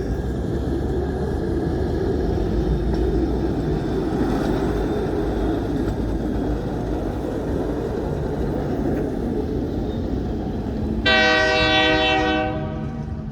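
Diesel-hauled train rolling by with a steady rumble of engine and wheels, then a locomotive horn sounding one blast of under two seconds near the end.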